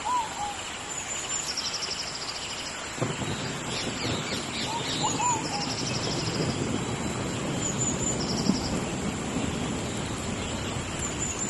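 Steady rain falling in a tropical rainforest, with birds calling over it in short whistled notes and quick repeated trills. About three seconds in the rain thickens suddenly and stays heavier.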